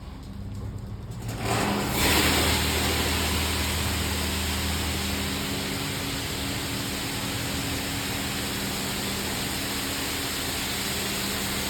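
LaserWash touchless car wash starting its next pass, heard from inside the car: about two seconds in, a loud steady hiss of spray or air comes on abruptly over a low machine hum and holds.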